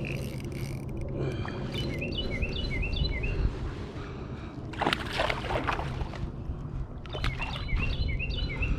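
A songbird sings two runs of quick, short down-slurred notes, one early and one near the end. About halfway through there is a loud burst of splashing, about a second long, from the hooked bass at the surface. A steady low rumble of wind and water lies under it all.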